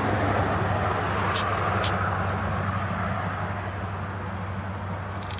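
An unidentified sharp, raspy clicking from the trees, struck twice about half a second apart, over a steady low rumble. The hikers take the clicking for a hidden, larger bird.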